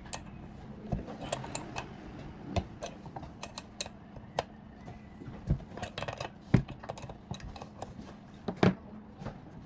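Irregular clicks, clinks and knocks of small metal parts and tools being handled, with the loudest knocks about six and a half seconds in and a double knock near eight and a half seconds.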